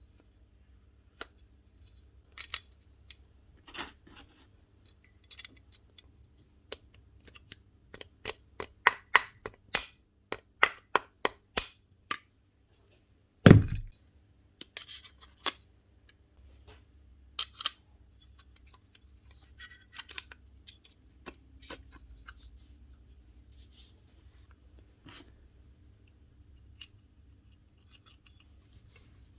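Tools and metal parts being handled at a workbench: scattered sharp clicks and clinks, a quick run of them about two or three a second, then one heavy knock about halfway, followed by quieter clicks and faint rubbing.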